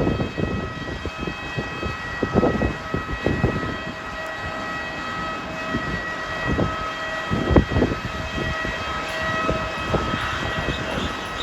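Steady high-pitched, multi-tone jet whine from a parked airliner, with strong wind gusting and buffeting the microphone, one stronger gust past the middle.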